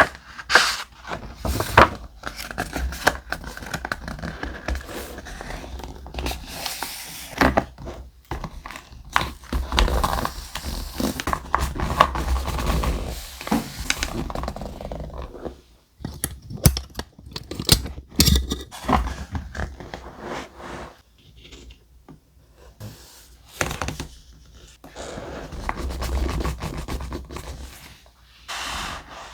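Close-up handling of thick paper for journaling: sheets and stickers scraping, rustling and occasionally tearing, broken by short sharp taps and thunks as pieces are laid down.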